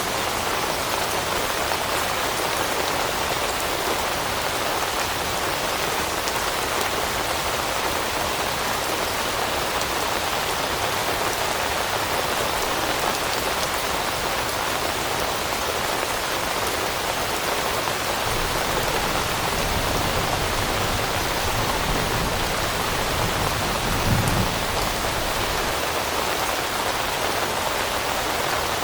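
Steady rain falling on leaves, an even dense patter. About two-thirds of the way through, a low rumble rises underneath and peaks in a brief thump.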